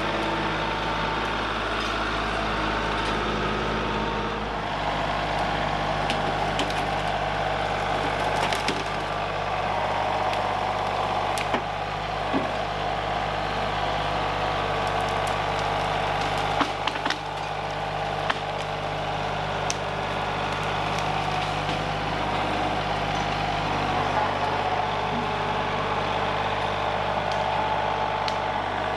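An engine running steadily at an even speed, with scattered sharp cracks and snaps, like wood breaking.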